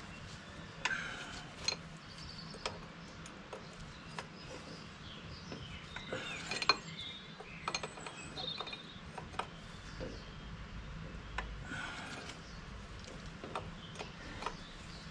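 Scattered light metal clinks and taps from hand tools and hydraulic hose fittings being handled, at irregular intervals, over a faint steady low hum.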